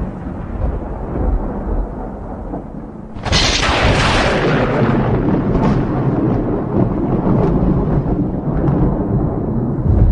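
Thunder rumbling, then a sharp thunderclap about three seconds in that rolls on into a long, low rumble with scattered crackles.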